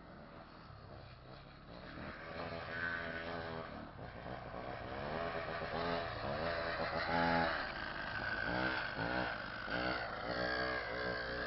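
Homelite two-stroke chainsaw engine running and revving up and down several times, rising in pitch and falling again, growing louder and loudest a little past the middle.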